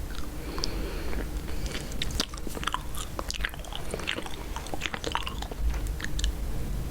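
Chewing gum close to the microphone, with rapid, irregular wet clicks and smacks over a steady low hum.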